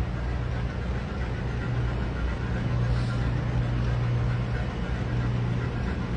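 Steady drone of a cargo ship's engine-room machinery: a strong low hum over a wash of mechanical noise, growing slightly louder a couple of seconds in.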